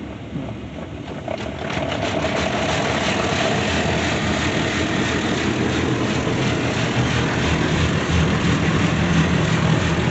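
Istobal Flex 5 automatic car wash running over the car, heard from inside. It builds about a second and a half in to a loud, steady rushing noise with a low machine hum beneath it.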